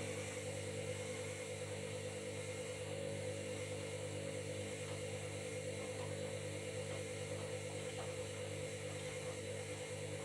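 Washing machine motor turning the drum, a steady hum and whir.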